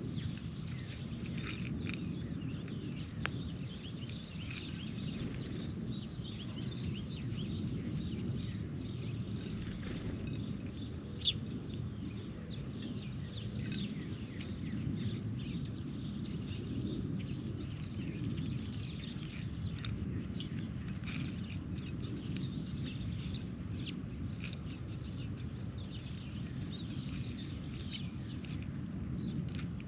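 Birds chirping, with scattered short clicks and taps and one sharper click about eleven seconds in, over a steady low rumble.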